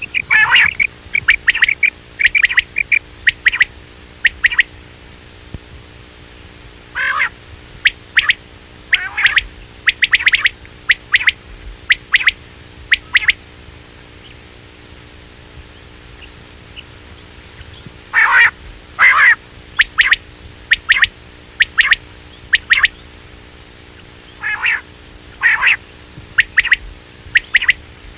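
Quail calls played as a hunting lure: groups of short, sharp notes repeated in quick runs, with a pause of a few seconds about halfway through.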